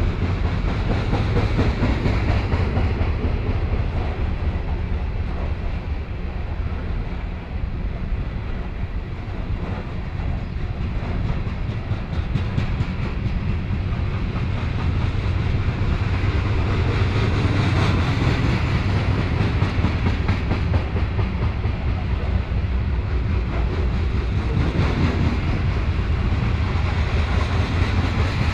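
Freight train of covered hopper cars rolling past close by: steel wheels running on the rails with a steady rumble.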